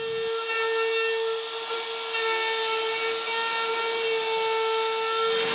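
Router running at speed, cutting a roundover profile along the edges of wooden strips: a steady high-pitched motor whine with a hiss of cutting over it.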